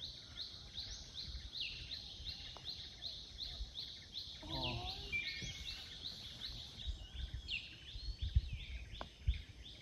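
A bird calling over and over in a rapid series of short high chirps, each falling in pitch, about two a second. A brief voice comes in about halfway through, a few low thumps follow near the end, then a single sharp click: a putter striking a golf ball.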